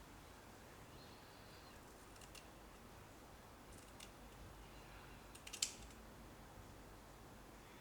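Near-silent room tone with a few small clicks and taps: single faint clicks about two and a half and four seconds in, and a sharper cluster of clicks, the loudest sound, about five and a half seconds in.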